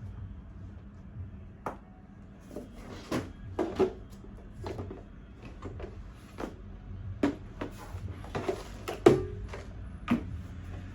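Baby high chair parts being handled and fitted together: a string of irregular knocks and clicks, the loudest about nine seconds in.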